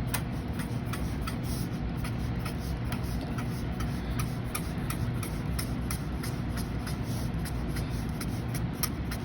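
Marker on paper drawing many quick short strokes, a rapid, irregular run of small scratchy ticks as little U-shaped feathers are drawn, over a steady low hum.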